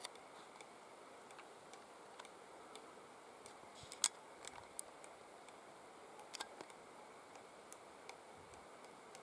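Three-toed woodpecker pecking at wood: faint, scattered, irregular taps, with a sharper cluster about four seconds in and another about six and a half seconds in.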